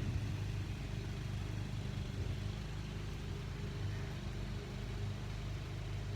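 Lawnmower engine running at a steady pitch.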